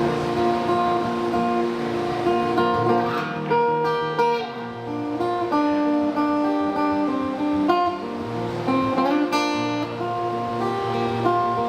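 Acoustic guitar playing an instrumental intro: chords picked and strummed, with notes left ringing as the chords change.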